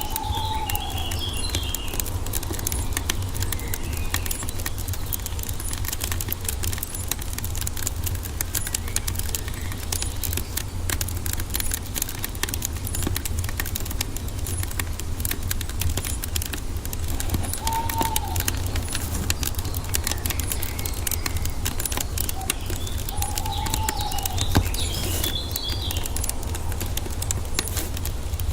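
Wood fire crackling with a constant patter of small pops over a low steady rumble. Birds call a few times over it: short chirps near the start, and single arched calls past the middle and again a few seconds later.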